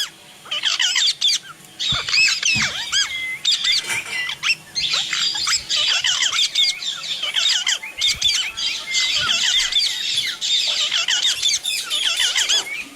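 Pet parrot chattering and squawking in quick strings of high warbling calls, with a few short pauses.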